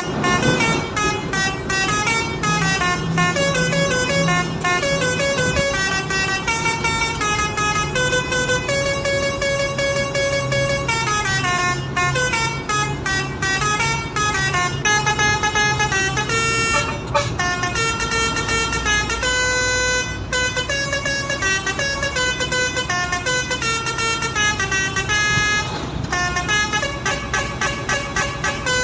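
A Basuri V3 musical truck horn plays a continuous melody of quick stepping notes, some short and staccato and some held, over a low steady hum.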